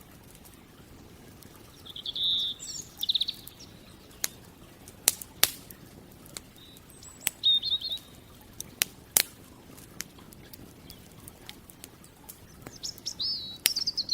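Campfire crackling with scattered sharp pops, while a small bird calls in short chirps and trills three times: near the start, midway and near the end.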